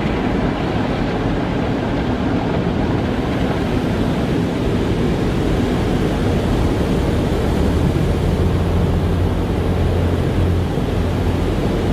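Automatic car wash running: a steady rush of machinery and water or air, with a low hum that swells in the middle and eases near the end.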